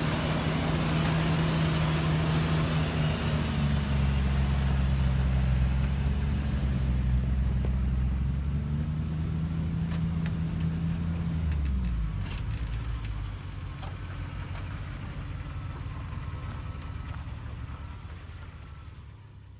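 Off-road vehicle engine running at low speed, a steady low drone that eases off about twelve seconds in and fades out near the end.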